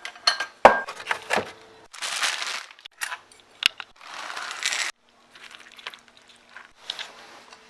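Handling sounds while breakfast is made: several sharp clicks and knocks, then two short rushes of rustling or crinkling noise, each under a second, over a faint steady hum.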